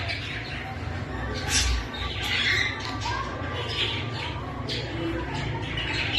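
Many small parrots — lovebirds, cockatiels and budgerigars — chattering and squawking together, short overlapping calls one after another, over a steady low hum.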